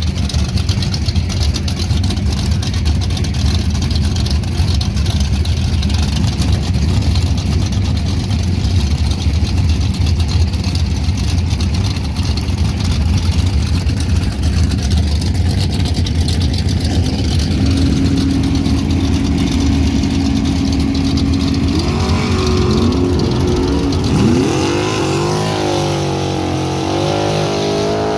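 Ford Mustang drag car's engine idling with a low, uneven rumble, then held at a steady higher rpm for a few seconds, then revving up and down repeatedly over the last six seconds during a burnout.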